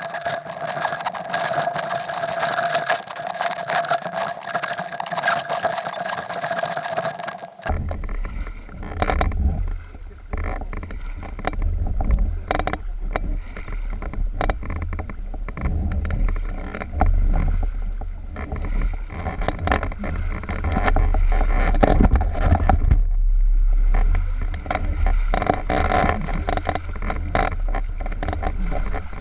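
Kayak paddling on a river: splashes and irregular knocks of the paddle against water and hull over a low wind rumble on the microphone. For the first several seconds a steady hiss with a held whine is heard instead, then it cuts off abruptly.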